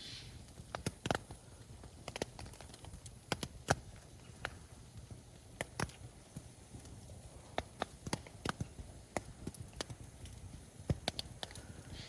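Wood campfire crackling, with sharp, irregular pops and snaps at uneven intervals over a low steady hiss.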